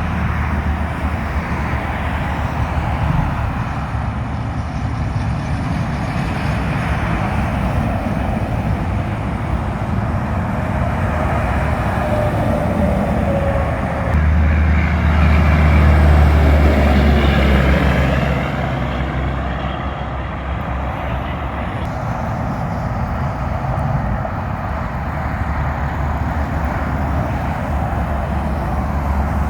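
Semi-trucks passing on a wet highway: diesel engine rumble over steady tyre hiss, with one truck passing closest and loudest about halfway through, its pitch falling as it goes by.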